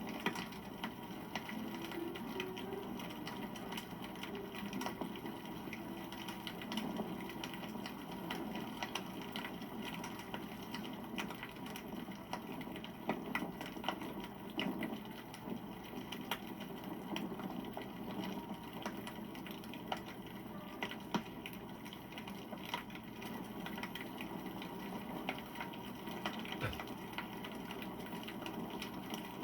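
Wood campfire burning, with constant small crackles and pops over a low, steady rush of flame.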